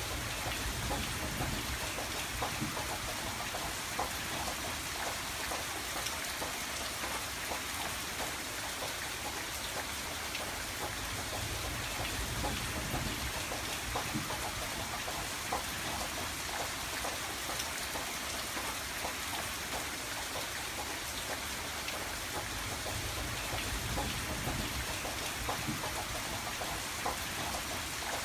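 Steady rain falling on a window, a constant hiss with many small drops ticking against the glass.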